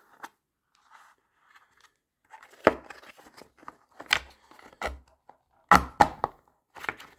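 Serrated knife blade push-cutting through a hard plastic car-radio case: irregular sharp cracks and snaps, starting about two seconds in.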